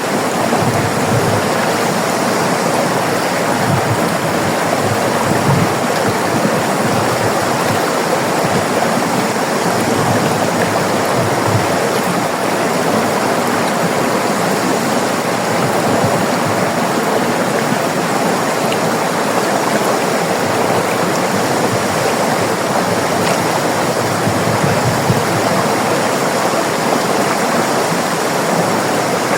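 River water flowing over rocks: a steady, full rush of running water with no let-up.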